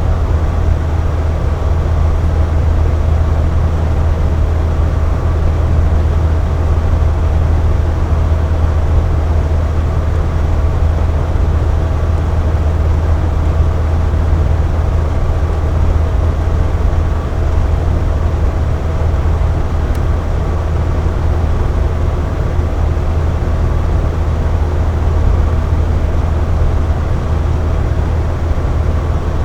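Air conditioner running steadily: a deep, even hum with a faint whine of steady tones above it and a soft rush of air.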